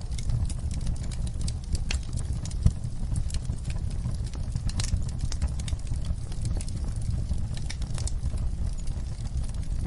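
Wood fire burning in a fireplace: a steady low rumble of flames with irregular sharp crackles and pops, one louder pop a little under three seconds in.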